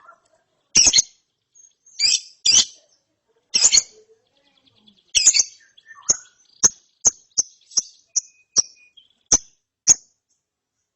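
Young lovebird chirping: sharp, high calls, a few loud ones spaced about a second apart, then a quicker run of short chirps about three a second in the second half.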